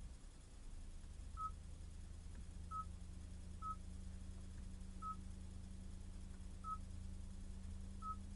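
Hyundai Veloster 1.4-litre turbo engine idling with a low, steady hum. A short high electronic beep sounds about every second to second and a half.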